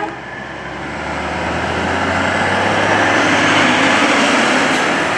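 A heavy truck drives past, its engine and road noise swelling over the first couple of seconds and then staying loud, over a steady low engine hum.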